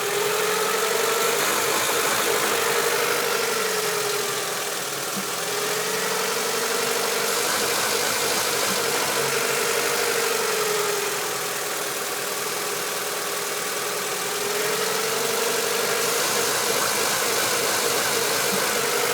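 1995 Honda Civic DX four-cylinder engine idling warm, its speed rising and falling several times, each setting held for a few seconds. The idle is following the idle air control valve's control voltage, faster when it is grounded and slower at 12 volts, so the valve is working.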